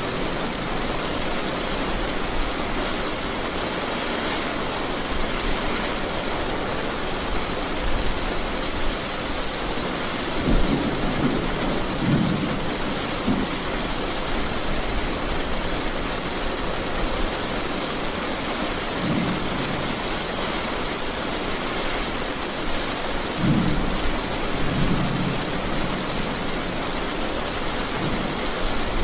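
Steady rain falling, with low rolls of thunder rumbling up a few times: one about a third of the way in, a short one past the middle, and another near the end.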